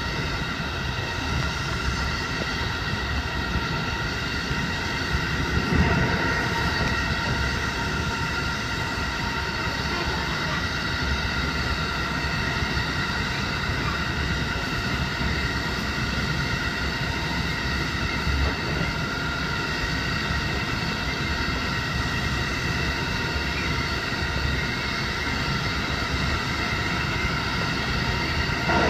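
JR Hokkaido 711 series electric train running along the line, heard from inside at the front: a steady rumble of wheels and running gear with a constant whine of several steady tones over it, briefly louder about six seconds in.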